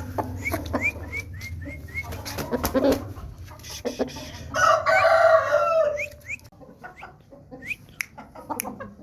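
Aseel rooster crowing once about halfway through, a single call of about a second and a half, amid clucking and a run of short, high rising chirps in the first couple of seconds.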